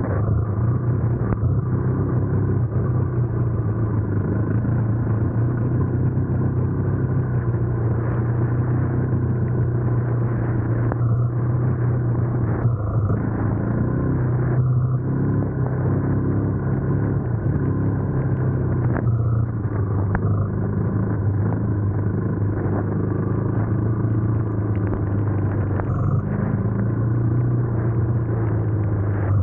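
Yamaha sport quad engine running continuously at a nearly steady pitch, with only slight dips in engine speed.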